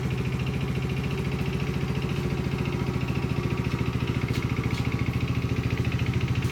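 Polaris Outlaw 50 quad's small four-stroke engine idling steadily and evenly just after a cold start, the throttle untouched. It runs well now that its valves, which were set too tight with no lash, have been readjusted.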